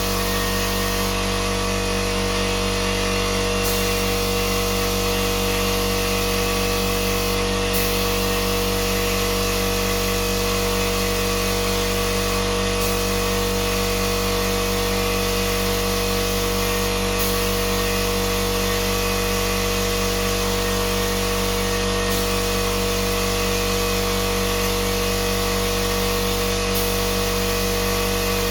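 Small electric power-tool motor running steadily at one unchanging pitch, with a strong hum-like tone and a hiss over it.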